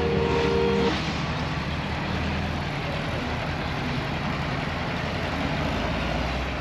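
A car engine idling with a steady low rumble, with music stopping about a second in.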